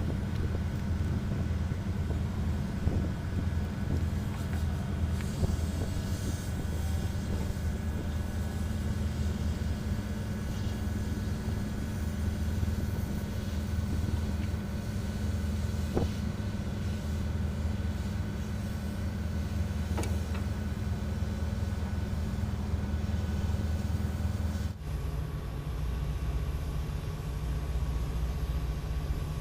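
Tugboat's marine diesel engine running with a steady low rumble. The sound changes abruptly about 25 seconds in, to a slightly different engine drone.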